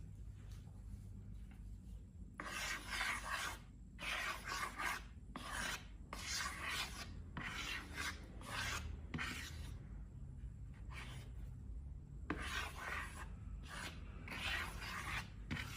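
Slime being mixed: a run of rasping, rubbing strokes, each under a second long with short pauses between, starting about two seconds in.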